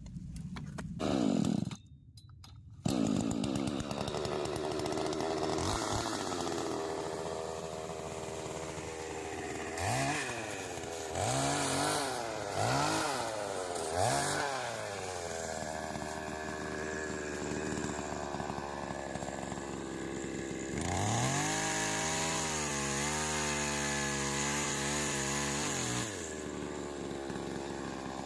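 Hand-held electric power tool rigged to spin a boat propeller, its motor whining up in several short bursts and then held for about five seconds before winding down.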